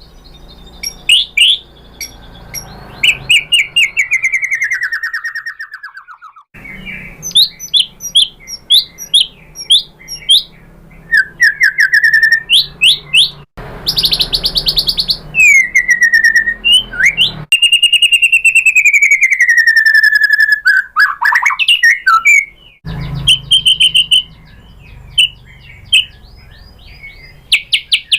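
White-rumped shama (murai batu) singing a loud, varied song: quick runs of high chips and trills, long falling slurred whistles and a long wavering whistle. The song stops and restarts abruptly several times.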